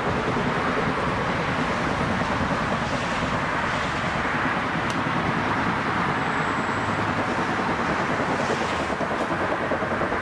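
Steady rumble of a train running on the rails, an even noise with no beat or break.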